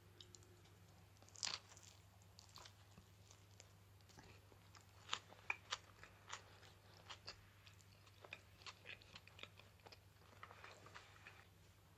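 Someone biting into and chewing a slice of bread topped with potato salad: crisp crunches of the crust, one about a second and a half in, a louder cluster around five to six seconds in, then a run of softer chewing crunches.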